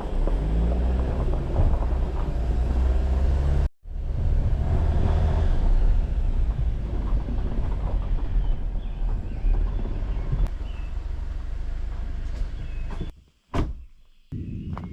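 Jeep Wrangler driving on a forest road, engine running with low rumble and road noise. The sound cuts off abruptly for a moment about four seconds in and again near the end.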